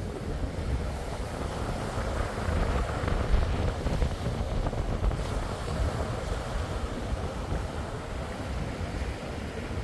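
Surf washing on a beach, with wind buffeting the microphone in an uneven low rumble.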